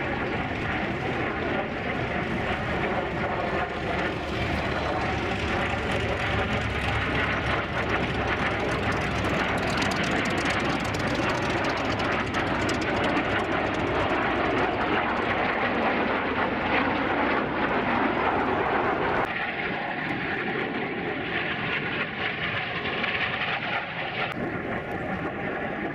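Vintage jet fighters' turbojet engines, an F-86 Sabre and a MiG-15, running through a display pass as a continuous loud roar with a steady whine in it. About three quarters of the way through, the deep rumble thins and the whine stands out more.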